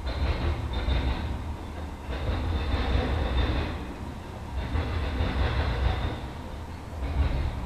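Norfolk Southern intermodal freight train rolling past, its wheels rumbling on the rails. The loudness swells and eases every second or two as the cars go by.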